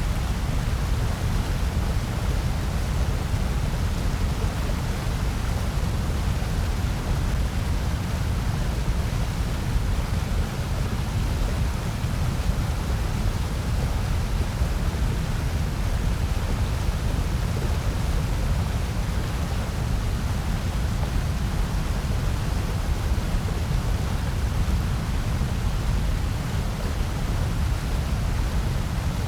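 Steady generated noise: a constant, even rush with no events in it, fullest in the bass and thinning toward the treble.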